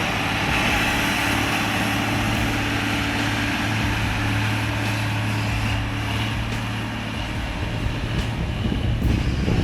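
A heavy vehicle's diesel engine running steadily under load, a constant deep hum with a rougher, shifting sound near the end.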